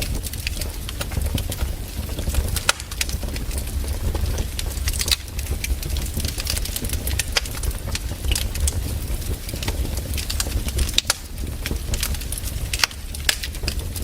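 Fireplace fire crackling, with irregular sharp pops scattered over a steady low rumble.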